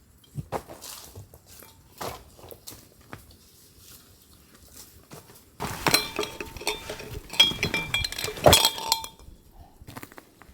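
Metal camp cookware being handled: a few scattered knocks, then from about five and a half seconds in a few seconds of clinking and rattling metal with short ringing tones.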